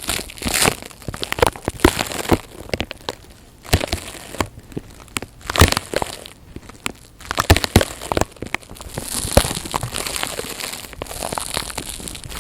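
Close-miked ASMR crinkling and crackling with many irregular sharp clicks, quieter in the middle and denser near the end.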